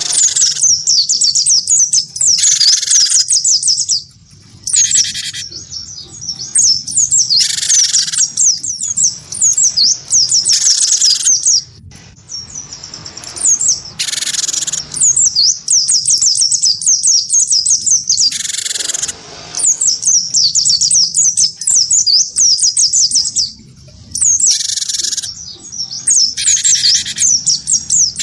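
Cinereous tit (gelatik batu) and a white-eye (pleci) singing hard against each other: a fast, unbroken stream of high twittering, cut through every second or two by louder, harsher bursts of song.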